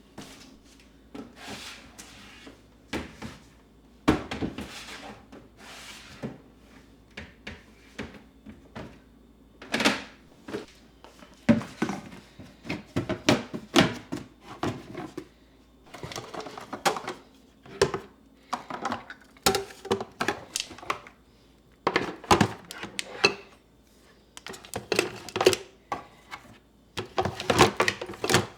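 Irregular clicks, knocks and rustling as objects are handled and set down, in no steady rhythm.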